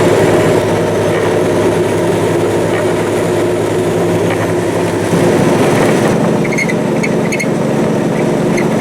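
Peterbilt 379 truck's diesel engine running steadily, heard from inside the cab, its engine note changing pitch about five seconds in.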